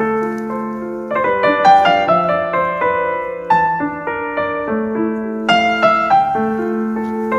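Background piano music: a slow, gentle melody of struck notes that ring on and overlap.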